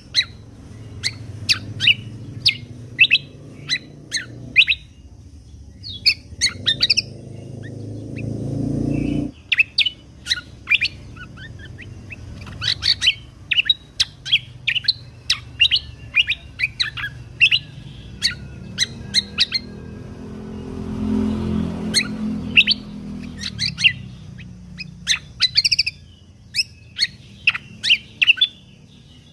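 A cucak kombo (kecial kombok) songbird singing a fast run of short, sharp chirps and whistled notes. Behind it is a low rumble that cuts off suddenly about nine seconds in and swells again for a few seconds past the middle.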